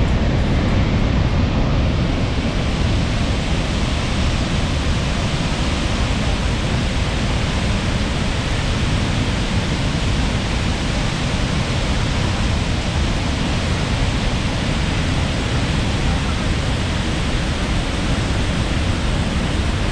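A steady, loud rushing noise with a strong low rumble and no breaks.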